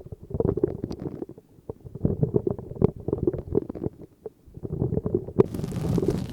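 Close-miked ASMR trigger sounds: flurries of quick, soft tapping with short pauses. About five seconds in it changes suddenly to a brighter, hissing rustle.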